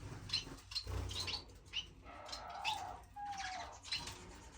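A mixed flock of small finches chirping continuously in an indoor bird room, with many short high calls overlapping. A lower, drawn-out call sounds twice, a little past the middle.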